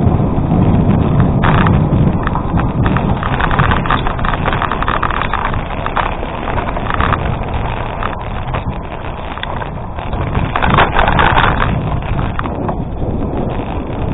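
Gravel bike rolling over a gravel road: tyres crunching on loose stones, with a steady stream of small clicks and rattles and a low wind rumble on the microphone.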